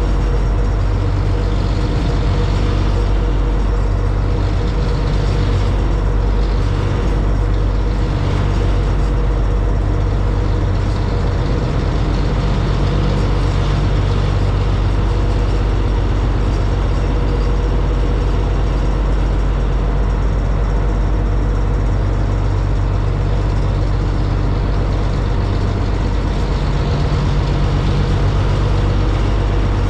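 High-speed passenger boat's engines running steadily under way, heard on board: a loud, constant low drone with a steady rush of noise over it.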